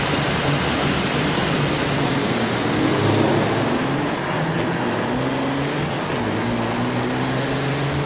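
Diesel semi-truck engines running hard under acceleration, a loud steady noise with the engine pitch climbing slowly through the second half.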